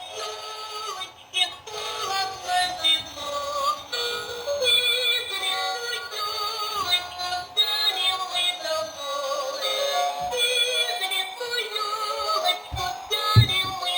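Singing Snegurochka (Snow Maiden) toy doll switched on and playing its song, singing over a music backing. A few low knocks come near the end.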